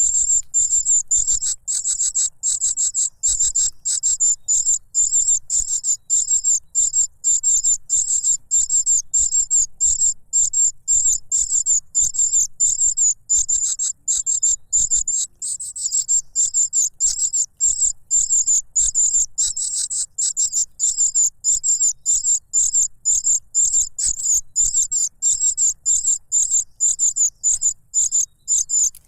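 Cuckoo chick begging for food: a loud, unbroken string of high, thin, rapidly repeated calls.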